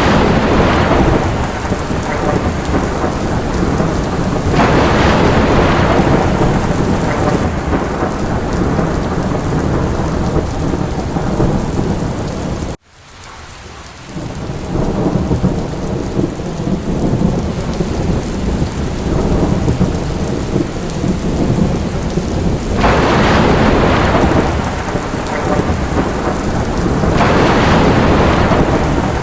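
Steady rain with low rolling thunder, the rain swelling louder several times. About halfway through the sound cuts out suddenly and fades back in over a second or two.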